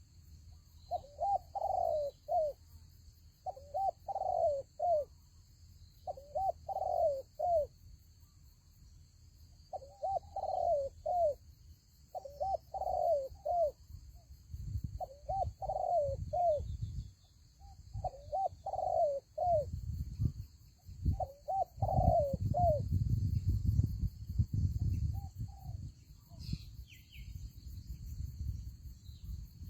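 Spotted dove cooing: eight short phrases of three or four notes each, repeated every two to three seconds and stopping a few seconds before the end. From about halfway, a low rumble comes in under the calls.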